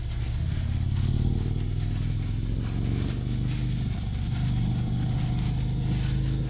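Harley-Davidson Ultra Classic's air-cooled V-twin engine running at a fairly steady pitch while the motorcycle is ridden through curves, with a steady rushing noise over it.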